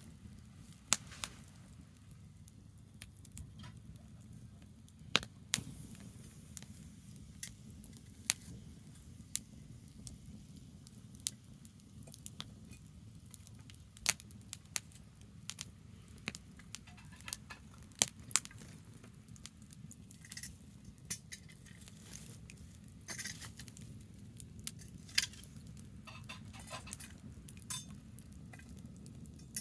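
Campfire of burning branches crackling, with sharp pops at irregular intervals over a steady low rumble.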